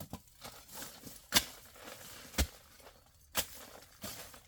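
A series of sharp knocks or strikes, three loud ones evenly about a second apart, with fainter rustling and scraping between them.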